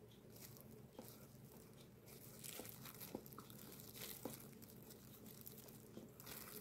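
Faint chewing of a soft bread-roll sandwich filled with fried breaded croquette and egg, with a few small mouth clicks. Plastic food-prep gloves crinkle lightly around the bread.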